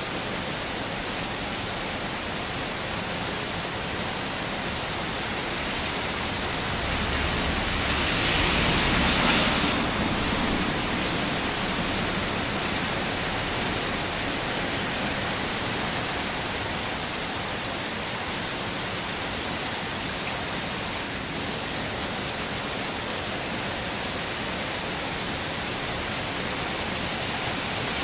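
Heavy rain falling steadily, a dense even hiss. It swells louder for a few seconds about eight seconds in, with a deeper rumble underneath.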